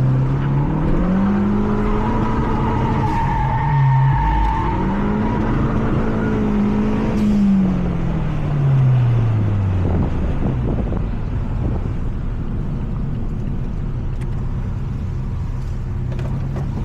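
Mazda 3 MPS turbocharged 2.3-litre four-cylinder heard onboard under hard acceleration. The revs climb, dip briefly at a gear change about four seconds in, then climb again. Around the middle they fall away over a few seconds as the throttle lifts, and the engine settles into a steady, lower drone for the rest.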